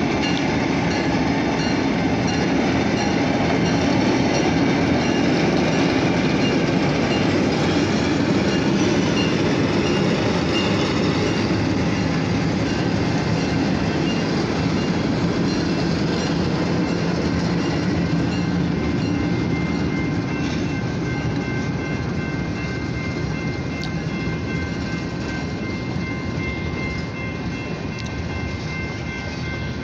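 Long freight train of tank cars and covered hoppers rolling past at a grade crossing: a steady rumble and clatter of steel wheels on the rails. A thin steady high tone joins in past the middle.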